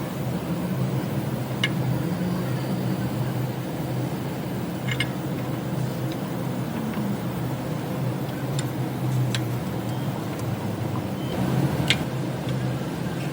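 A car running with a steady low drone, broken by a few separate short sharp clicks.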